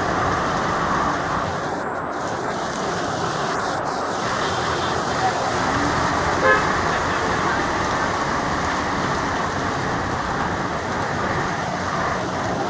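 Heavy rain falling steadily, a dense even hiss. About six and a half seconds in, a short vehicle horn toot sounds over it.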